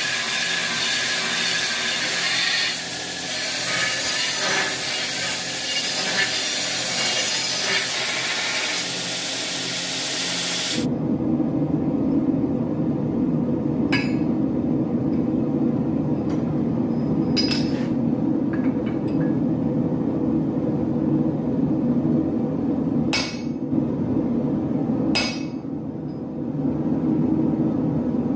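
Loud steady hiss of a workshop power tool that cuts off abruptly about ten seconds in. Then a steady low roar with a few sharp metallic clinks, in a blacksmith's workshop.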